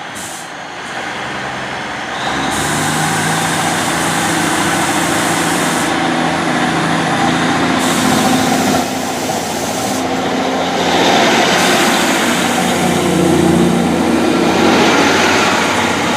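Class 150 Sprinter diesel multiple unit pulling away from a station. Its underfloor diesel engines power up about two seconds in and run under load as it accelerates.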